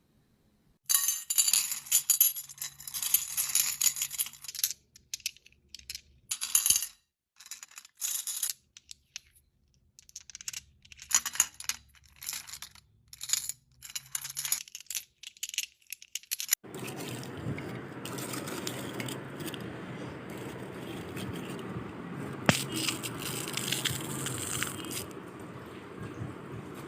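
Irregular bursts of bright rattling, as of small hard things being shaken, for about fifteen seconds, then a steady rushing noise that starts suddenly and runs on.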